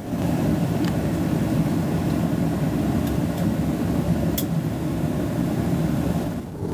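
Steady low rumble of a jet airliner, with a few faint clicks.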